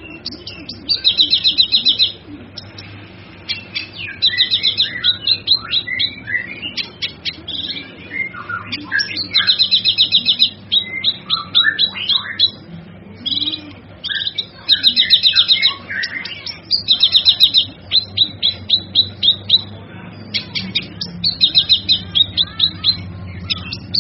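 Cucak kinoi song: repeated bursts of rapid, high trilled notes every two to three seconds, with varied chirps and slurred whistles between them.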